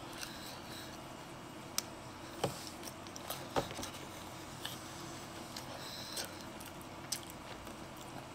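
Close-up chewing of pizza, with a few short sharp mouth smacks and clicks scattered through, over a steady low room hum.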